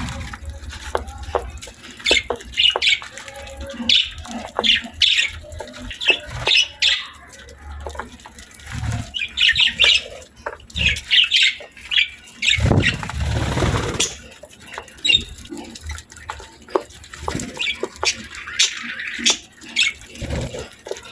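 Pet budgerigars chirping and chattering in many short high calls, mixed with small sharp clicks and taps. About thirteen seconds in there is a short burst of noise.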